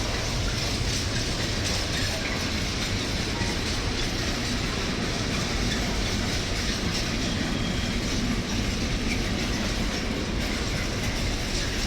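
A freight train's wagons rolling past at steady speed, a continuous heavy rumble of wheels on the rails.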